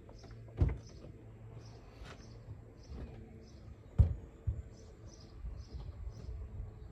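Volvo V70 XC engine idling with a steady low hum, with two loud thumps about half a second and four seconds in. A short high chirp repeats about twice a second.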